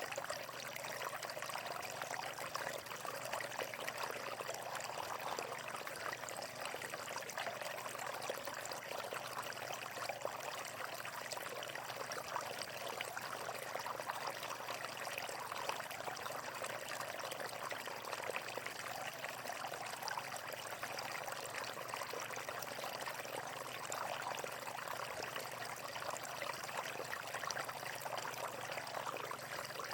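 Flowing water running steadily, an even rushing splash that does not change.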